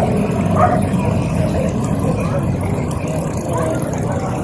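Steady low rumble of motor vehicle engines running at walking pace, with a few faint short calls over it.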